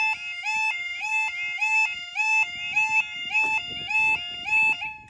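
Level crossing warning alarm at a manually controlled barrier crossing, sounding loud, rapidly alternating two-tone notes that each start with a short upward swoop. It warns that the barriers are lowering for an approaching train, and it cuts off suddenly near the end.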